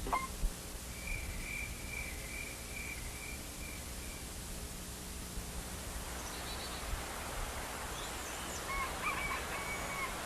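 Outdoor ambience with birds chirping. A row of short, high, evenly repeated chirps comes about a second in, and a few more calls follow later, over a steady low background hiss.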